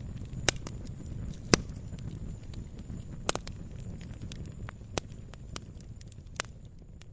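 Wood fire burning, a low steady rumble of flames with sharp crackling pops scattered through, the loudest about a second and a half in.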